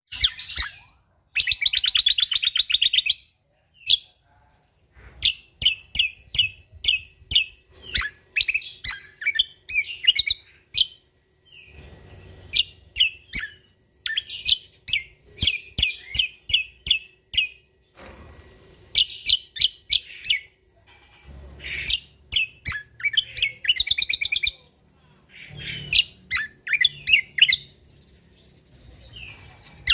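Cucak kombo (kecial kombok) songbird singing vigorously: bursts of rapid, sharp chips and chattering trills, broken by short pauses.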